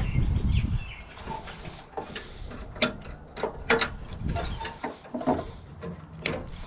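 Garden pruning cutters snipping through electrical cables on a hot-water unit's board: a series of short sharp snips, about one a second, with handling noise near the start.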